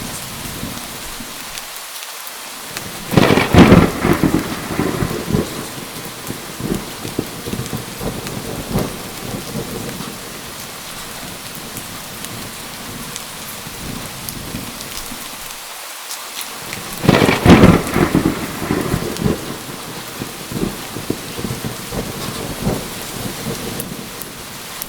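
Steady heavy rain with two loud thunderclaps, about three seconds in and again about seventeen seconds in, each rumbling away over a couple of seconds.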